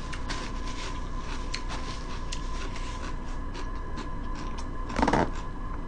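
Close-miked chewing of a fish sandwich: faint soft mouth clicks and smacks scattered through, with one louder short noise about five seconds in. A faint steady hum sits underneath.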